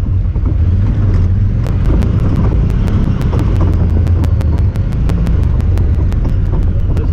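Honda Talon 1000R side-by-side engine droning steadily as it drives, with wind buffeting the microphone. From about a second and a half in, a sharp, even ticking at about four ticks a second joins it: a noise from the camera itself, not from the machine.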